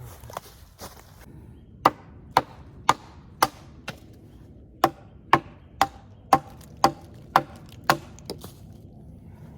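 Repeated sharp blows on wood, about two a second, in two runs with a short pause about four seconds in.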